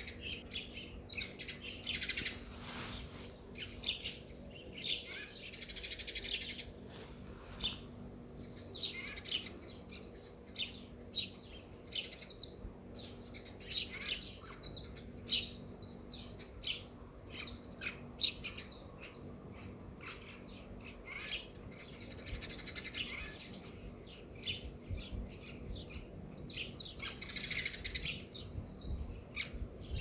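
Small birds chirping: many short, high calls in quick succession, with a few longer chattering phrases between them.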